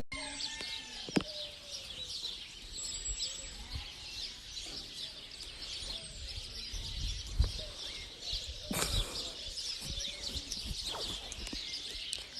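Faint bird chirps over a steady high hiss, with a couple of soft knocks.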